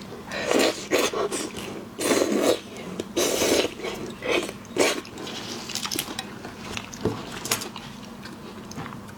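Close-miked eating of shellfish: shells cracking and crunching in irregular bursts as they are bitten and chewed, thinning out to a few sparser crunches after about five seconds.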